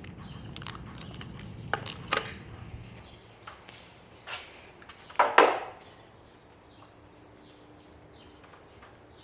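A few scattered knocks and clicks from objects being handled, the loudest about five seconds in, over a low hum that fades after about three seconds.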